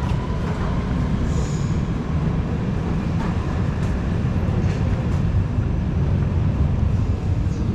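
Steady low rumble of a moving train running along the track.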